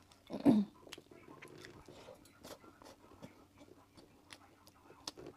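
Close-miked chewing and mouth sounds of someone eating fried rice and sausage: many small wet clicks and soft chews. About half a second in there is one short, louder voiced sound that drops in pitch.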